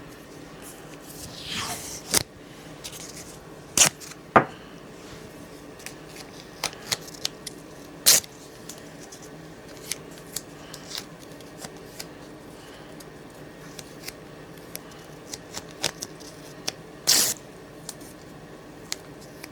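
Protective tape being handled, pulled off the roll and cut, with scattered sharp snips and clicks. A few longer ripping sounds stand out, one about two seconds in and one near the end.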